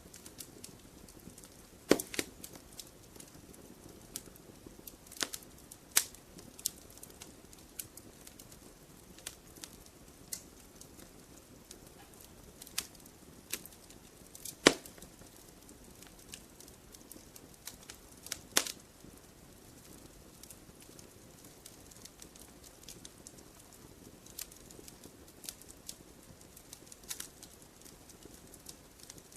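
Wood fire crackling in a fireplace: irregular sharp pops and snaps over a soft, steady rush of flame, the loudest pop about halfway through.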